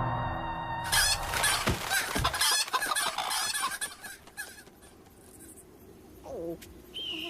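Cartoon sound effects: about a second in, a burst of cackling, clucking, bird-like squawks runs for about three seconds and then dies down. Near the end comes a short falling glide, then a steady high tone.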